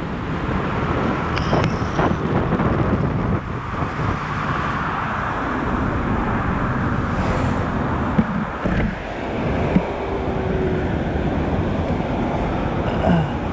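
Steady road noise while riding in traffic: wind rushing over the microphone mixed with engine and tyre noise, with a few brief clicks and knocks.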